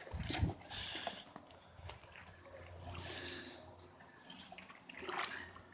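Water sloshing and splashing as a slaughtered turkey is dunked and swished in a scalding bath, the step that loosens its feathers for plucking.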